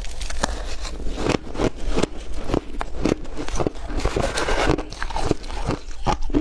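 A person biting and crunching chunks of ice close to the microphone: an irregular run of crisp cracks and crunches, several a second.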